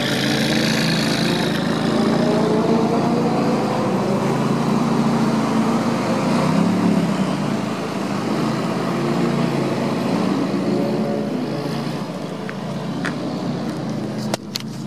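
McLaren 570S's twin-turbo V8 running at low revs as the car drives off, its note rising a little over the first few seconds and then holding steady. The sound drops away abruptly with a few clicks near the end.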